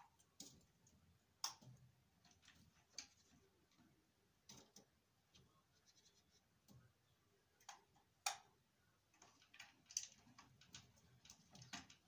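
Faint, irregular sharp taps and clicks, roughly one a second, the loudest a little past eight seconds in: a great tit's feet and beak on the snowy windowsill, heard through the window glass.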